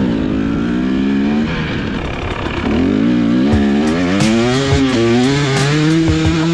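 Dirt bike engine running under throttle: the revs fall away, then climb in steps and settle at a steady pitch near the end. Scattered sharp clicks sound over it.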